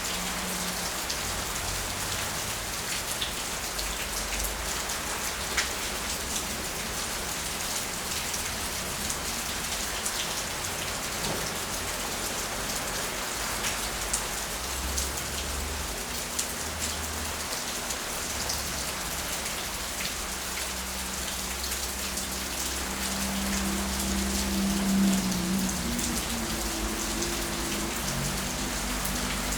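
Heavy rain falling steadily in a storm, with scattered sharp drop hits. A low hum swells briefly near the end.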